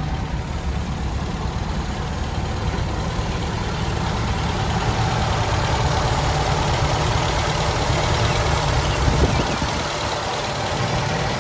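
1974 MGB engine idling steadily, getting a little louder through the middle and dropping back about three-quarters of the way in.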